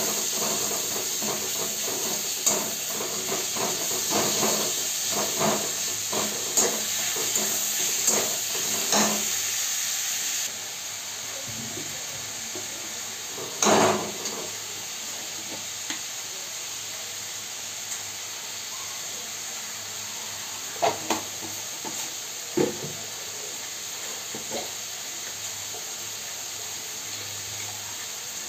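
Chopped onion and tomato sizzling in a kadai on a gas stove, with a spatula scraping and clicking against the pan. The sizzle drops suddenly to a quieter hiss about ten seconds in, and a loud knock of the spatula on the pan follows a few seconds later, with a few lighter knocks near the end.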